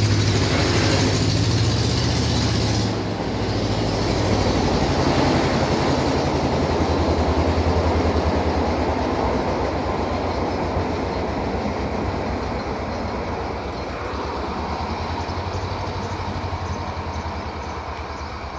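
Freight train of oil tank wagons rolling past, its wheels rumbling and clattering on the rails, with the sound slowly fading as the train moves away.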